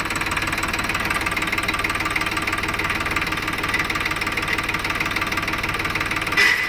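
Sonalika DI 50 12+12 tractor's diesel engine running steadily. Near the end a short grinding clash ("kar kar") comes as the forward-reverse lever is shifted into reverse: the lever has no free play.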